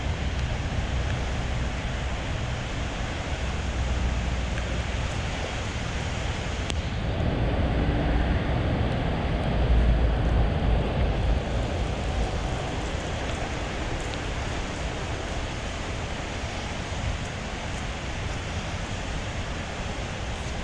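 Street ambience: a steady wash of city noise with wind rumbling on the action camera's microphone. It swells louder for a few seconds about halfway through, then settles back.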